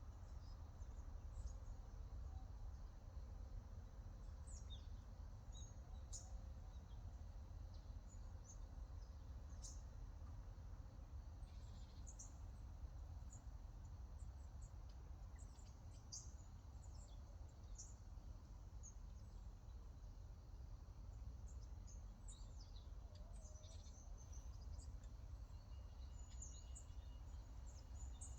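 Birds chirping faintly, with many short, scattered high calls, over a low steady background rumble.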